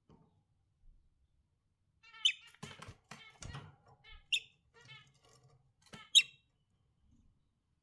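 Budgerigars chirping and chattering in short bursts, with three sharp, loud calls about two, four and six seconds in. A few clicks and knocks come in the middle.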